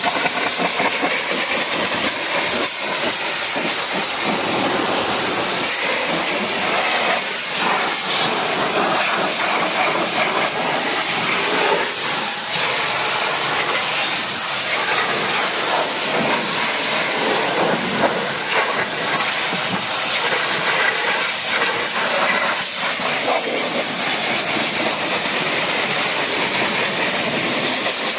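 Pressure washer spraying a high-pressure jet of water, a loud, steady hiss.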